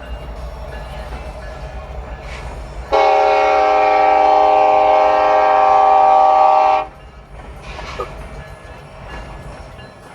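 Train horn sounding one steady blast of about four seconds that starts and cuts off sharply, over the low rumble of the passing train.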